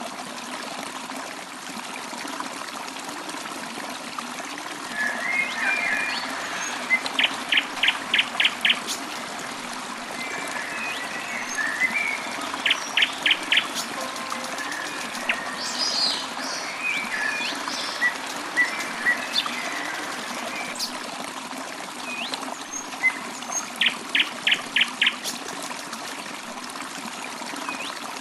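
Stream trickling steadily, with birds singing over it: three times a quick run of five or six sharp repeated notes, among scattered shorter chirps.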